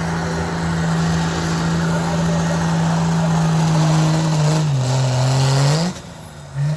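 Pulling tractor's engine running hard at a steady high pitch. Near the end the pitch drops, climbs back up, then the sound cuts off abruptly, with a brief burst just after.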